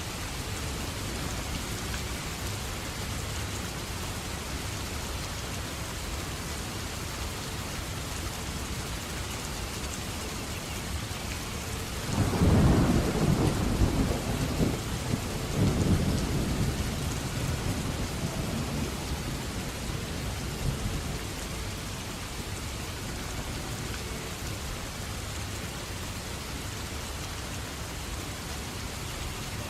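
Steady heavy rain falling, with a roll of thunder about twelve seconds in that rumbles low, swells twice and dies away over several seconds.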